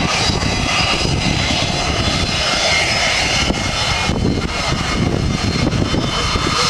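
Boeing 727's three JT8D turbofan engines running loud and steady at takeoff power, with a high whine over the roar. The jet blast is washing over the beach, and the gusting air rumbles unevenly on the microphone.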